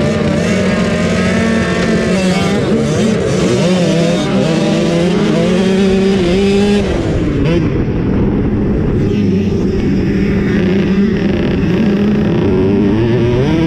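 65cc two-stroke motocross bike engines racing, revving hard with the pitch rising and falling as the throttle opens and closes. About halfway through the sound turns duller as the high end drops away.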